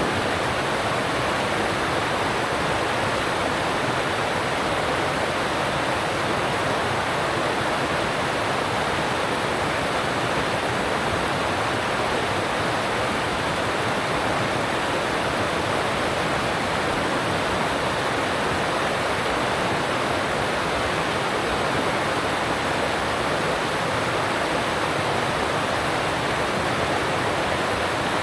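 Alpine mountain stream rushing over rocks, a steady, even rush of water.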